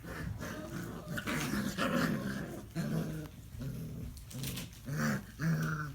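Five-week-old English Shepherd puppies growling in a string of short, low growls.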